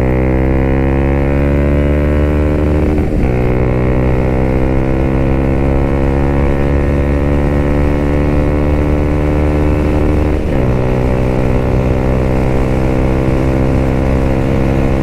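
Suzuki Gixxer 155 single-cylinder motorcycle engine accelerating hard through the gears, its pitch climbing steadily. It drops with an upshift about three seconds in and again about ten and a half seconds in, then climbs again.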